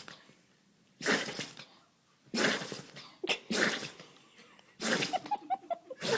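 Dog sneezing repeatedly: about four short, sharp sneezes a second or so apart, with a brief snort between two of them.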